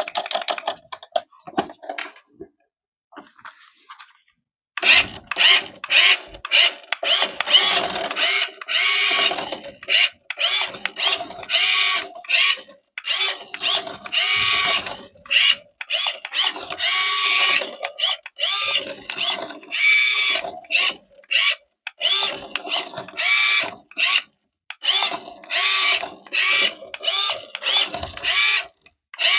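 Small electric motor and gearbox of a toy remote-control car whirring in repeated runs of a second or two each, starting and stopping over and over. A few clicks come first.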